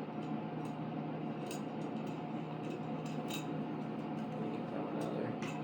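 Scattered light clicks and clinks of small hard parts such as spacers and screws being handled and fitted during kit assembly, over a steady background hum.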